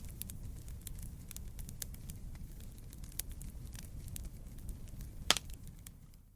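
Wood campfire burning: a low steady rumble of flames with irregular sharp crackles and pops, one loud pop about five seconds in. The sound fades away near the end.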